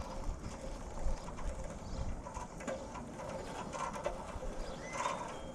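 Faint small clicks and knocks of parts and tools being handled, with a short rising bird call about five seconds in.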